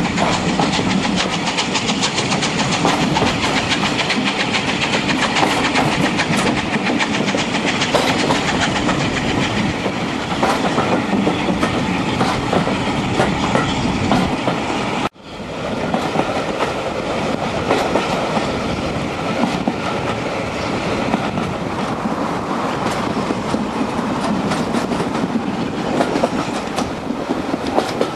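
Steam-hauled train running, heard from an open carriage window: the steady rush of the moving train with the wheels clicking over the rail joints. About halfway through the sound cuts out suddenly and comes back within a second.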